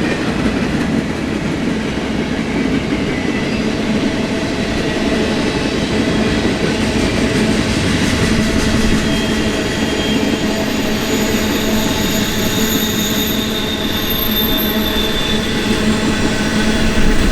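Freight train cars rolling past with a steady rumble of wheels on rail. About ten seconds in, high wheel squeal sets in and holds for several seconds.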